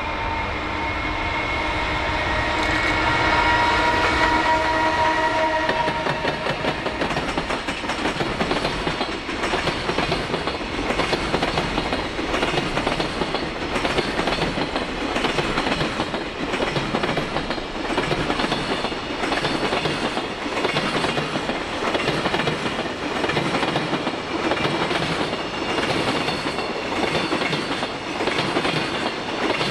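JR Freight EF210 electric locomotive passing with a whine of several steady tones over its rumble for the first six seconds, then a long train of Koki container wagons rolling by, the wheels clacking over rail joints about once a second.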